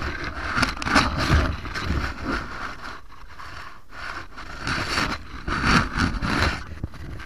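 Irregular scraping and rustling noises that come and go in uneven surges.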